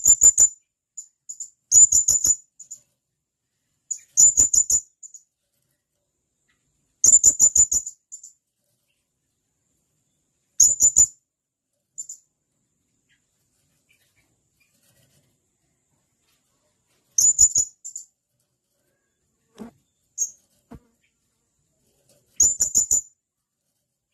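Blue-crowned hanging parrot (serindit) calling: short bursts of rapid, sharp, very high-pitched notes, about seven bursts a few seconds apart with silence between, and a couple of faint single notes.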